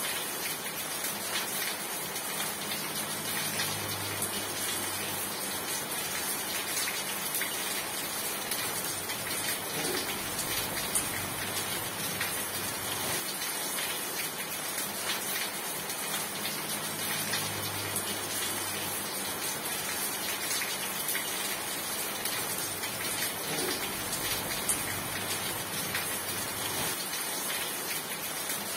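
Rain falling steadily, a dense even hiss full of small drop ticks.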